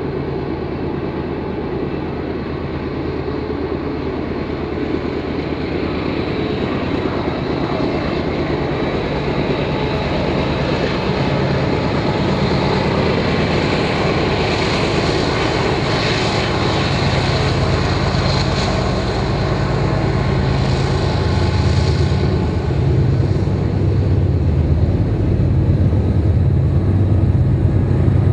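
Diesel locomotives hauling a double-stack intermodal freight train pass close by. Their engines make a steady low drone that grows gradually louder. As the stack cars follow, the noise of the train rolling on the rails carries on.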